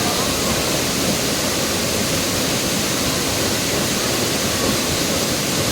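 Waterfall, water falling and rushing in a loud, steady hiss.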